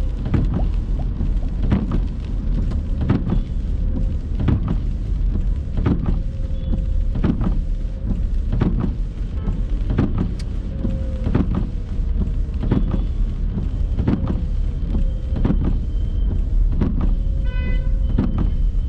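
Windscreen wipers sweeping back and forth in rain, knocking at each turn about every 0.7 seconds, over the car's steady low road and engine rumble.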